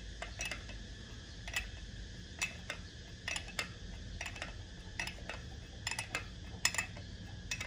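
Steel wrenches clicking and clinking on the puller bolt in short, uneven taps while the bolt is turned to draw a Caterpillar 3406 diesel injector out of its bore, over a steady low hum.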